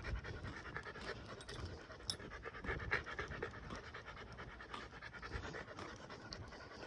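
American pit bull terrier panting steadily and rhythmically.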